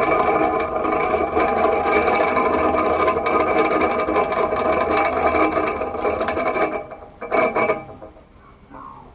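Small electric fan running with a steady motor whir and rattle, with several steady tones in it. It drops away about seven seconds in, with one brief louder sound just after.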